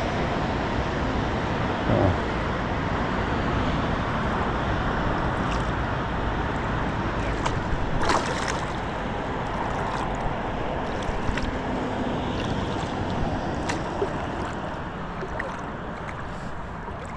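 Steady water-and-wind noise around a small fishing pontoon boat drifting on a lake, with water sloshing against the boat and a few small knocks, about two seconds in, near the middle and again later on.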